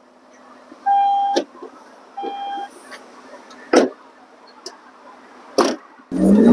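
Two short electronic beeps about a second apart, then a few soft knocks. Near the end, the BMW X5 M50d's 3.0-litre straight-six diesel starts up with a sudden rising flare of revs.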